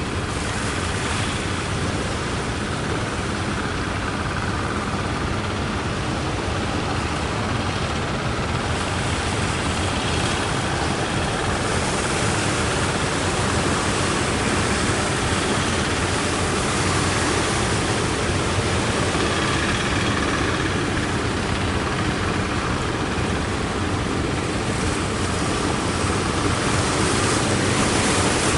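Strong wind blowing over the microphone, a steady loud rush that swells slightly near the end.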